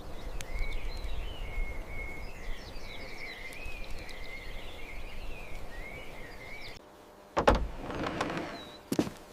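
Birdsong, a warbling chirping, over a low outdoor rumble. Near the end it cuts off suddenly and a loud knock follows, then a scraping noise and a second sharp knock.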